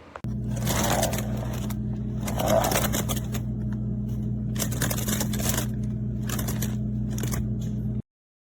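Objects being handled: about six bouts of scraping and rustling over a steady low electrical hum, which cuts off abruptly near the end.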